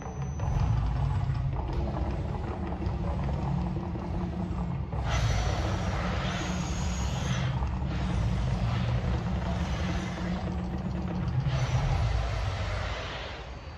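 The Mirage volcano show erupting: a deep, steady rumble, overlaid about five seconds in by three long hissing rushes a few seconds apart.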